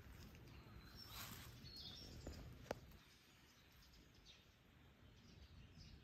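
Faint birds chirping over low outdoor background noise, with a single sharp click a little before the middle.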